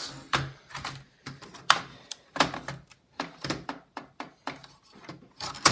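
Irregular clicks, taps and small snaps of a laptop's plastic case being handled and worked at its clips, with one sharper click near the end.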